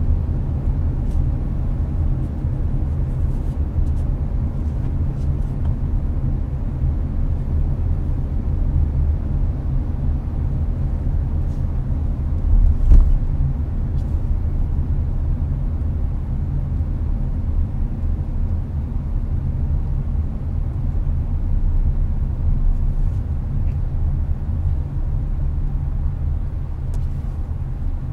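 Steady road and engine rumble inside a Hyundai Avante's cabin at expressway speed, with air-conditioning fan noise mixed in. A single louder thump about halfway through.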